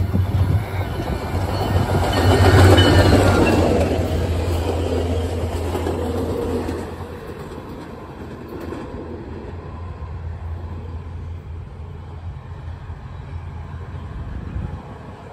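SunRail diesel-hauled commuter train passing: a steady engine drone with wheels rolling on the rails, loudest about three seconds in, then dying away to a quieter rumble as the train moves off.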